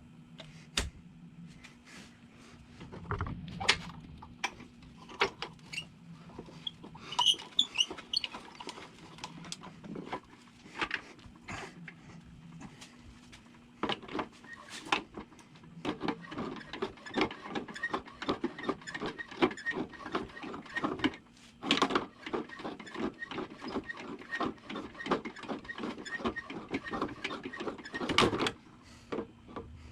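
Hand tools and metal brake parts clicking, knocking and clinking during hands-on brake work, with a few ringing metallic pings about a quarter of the way in and a long run of quick small clicks in the second half. A faint steady hum sits underneath.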